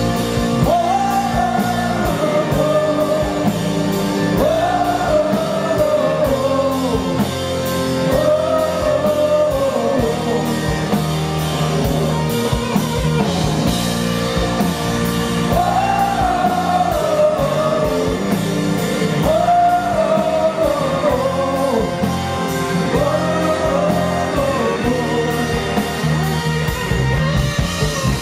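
Blues-rock band playing live: electric guitar, drums with a steady beat, and a melody line rising and falling in long phrases, heard as singing.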